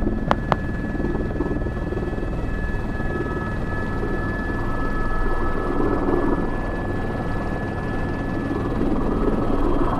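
Airbus H125 (AS350 B3) helicopter in flight, heard from inside the cockpit: steady turbine and rotor noise with a steady high whine. Two sharp clicks just after the start.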